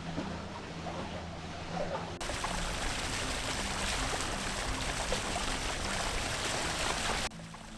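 Water rushing and splashing along the hull of a solar-electric boat under high thrust, its motor nearly silent. The rush grows louder and fuller about two seconds in and cuts off abruptly near the end.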